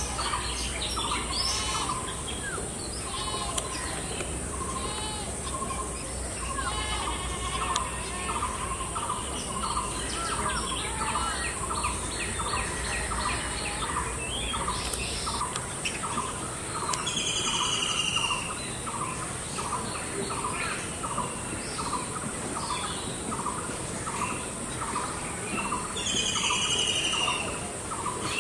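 Outdoor bird chorus: a steady series of short, evenly spaced notes repeated about twice a second, over other birds chirping. Two louder calls come partway through and near the end, over a steady high hiss.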